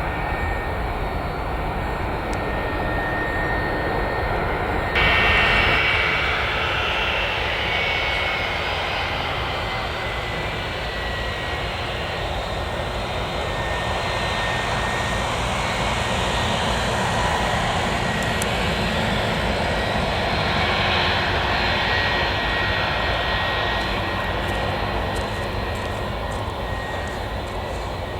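Jet airliner engines running close by: a steady rushing noise with a faint high whine, getting suddenly louder about five seconds in and then slowly easing.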